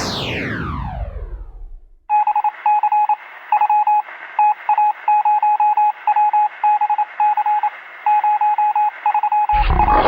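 A loud falling-pitched sweep dies away over the first two seconds. Then a single high beep tone switches on and off in short and long pulses over steady hiss, like radio Morse code, until a noisy burst cuts in near the end.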